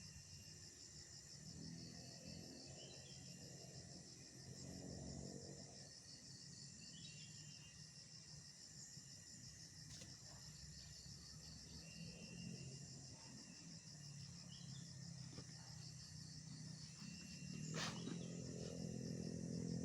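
Crickets and other insects chirping in a steady, fast-pulsing high chorus, with a low hum swelling twice and a single sharp click near the end.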